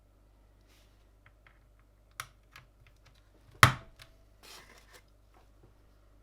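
Scattered plastic clicks and taps of mechanical keyboard parts being handled during assembly. One loud sharp snap comes a little past halfway, followed by a brief rustle.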